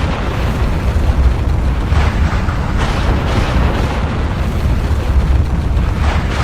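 Volcanic eruption: a continuous deep rumble with a few brief, brighter bursts breaking through.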